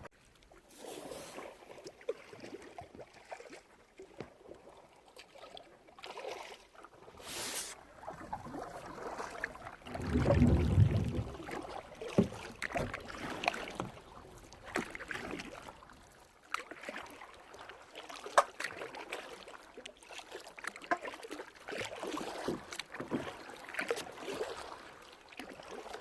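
Kayak paddling: paddle blades dipping and splashing in the water with irregular drips and small knocks. About ten seconds in there is a brief louder low rumble.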